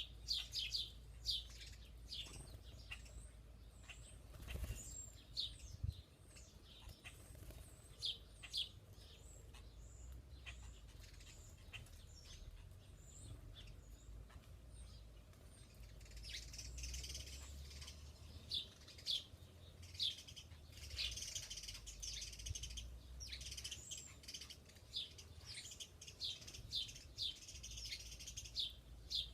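Small birds chirping: short, high calls repeated every second or so, thickening into busier twittering in the second half, over a low background rumble.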